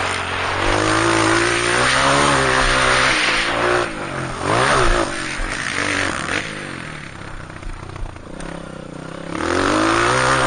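Dirt bike's four-stroke single-cylinder engine (Honda CRF230) revving up and down repeatedly under throttle. It eases off about two-thirds of the way in, then opens up again with a rising pitch near the end.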